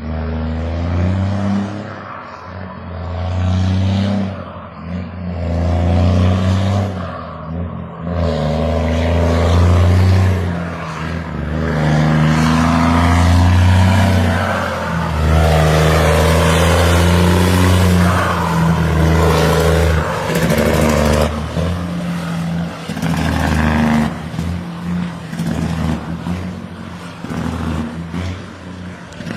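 Straight-piped Cummins ISX 530 inline-six diesel of a Freightliner Argosy truck running loud, its deep exhaust note swelling and dropping again and again.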